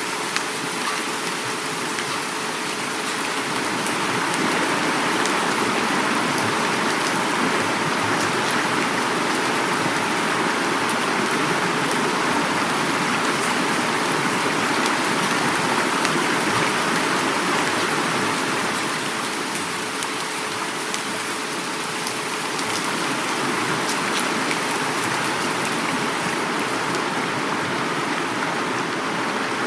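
Heavy rain falling steadily, with dense pattering and the rush of flowing river water beneath it, swelling a little louder for a stretch in the middle.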